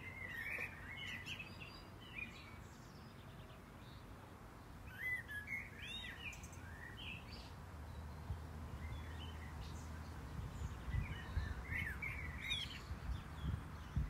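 Songbirds chirping and warbling in short phrases, in three spells: at the start, about five seconds in, and near the end. Under them is a steady low outdoor background rumble.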